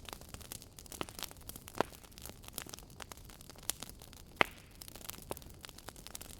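Wood fire crackling: irregular sharp pops and snaps over a faint hiss, with one louder pop about four and a half seconds in.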